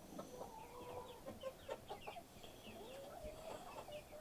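A flock of hens clucking and murmuring softly, many short calls overlapping.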